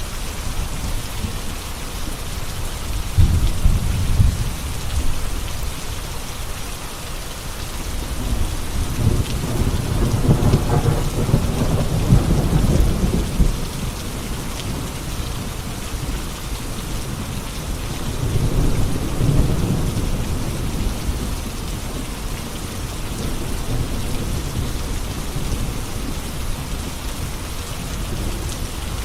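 Steady heavy rain with rolling thunder: a short rumble a few seconds in, a longer and louder roll in the middle, and another about two-thirds of the way through.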